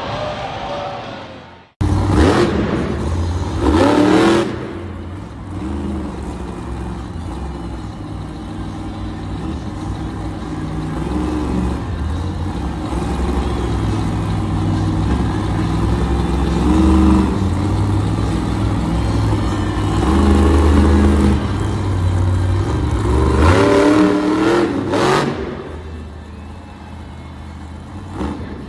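Monster truck engine running and revving hard, the pitch climbing sharply a couple of seconds in and again near the end.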